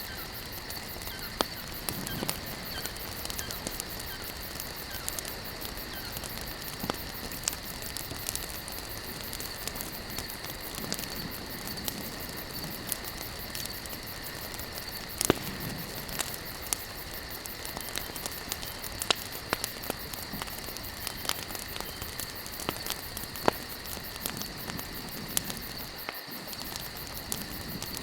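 Campfire of burning wood logs crackling, with irregular sharp pops scattered over a steady hiss.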